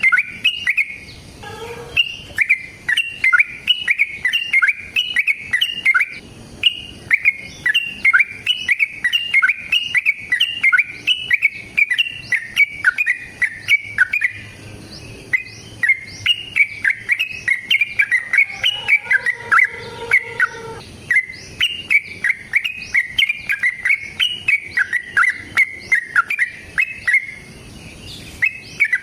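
Yellow-vented bulbul singing a long, fast, unbroken run of repeated chirping notes, several a second, pausing only briefly a couple of times.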